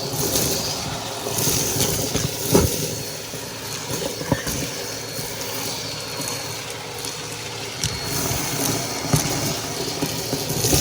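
Vacuum cleaner motor running steadily with a faint high whine, with a few sharp knocks and rattles as it is worked.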